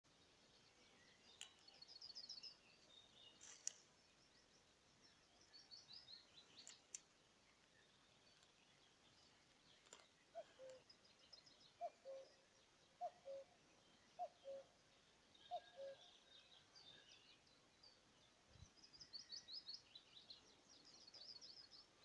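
Songbirds singing in spring woodland: quick, high trilling phrases that come again every few seconds. Midway, a lower bird call of two falling notes repeats five times, about one a second.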